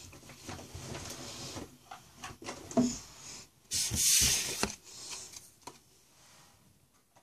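Pokémon trading cards being handled and sorted by hand: rustling, sliding and light taps of card stock, with a louder brushing rustle about four seconds in.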